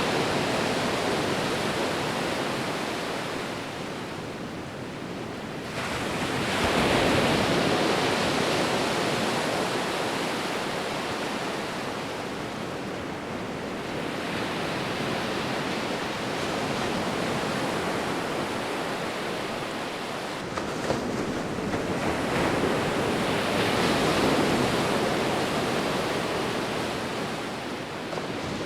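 Sea waves breaking and washing up a beach, a full hiss of surf that swells and fades in slow surges, loudest about seven seconds in and again near twenty-four seconds.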